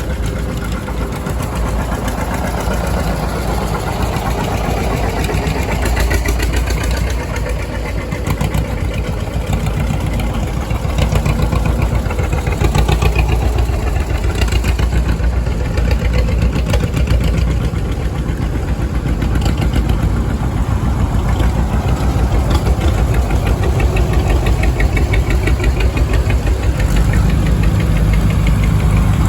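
Old farm tractor engines running with a fast, steady chugging.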